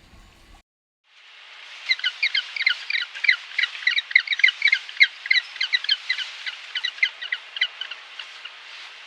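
Rapid, busy series of short bird chirps over a light hiss, starting about a second in and thinning out near the end.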